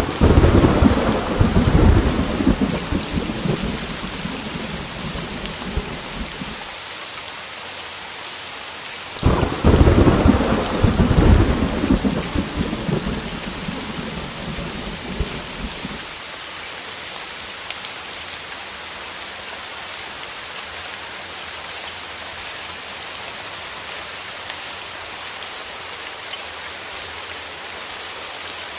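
Heavy rain falling steadily, with two peals of thunder: one rumbling from the start for about six seconds, and a second that breaks in sharply about nine seconds in and rolls on until about sixteen seconds. After that only the rain.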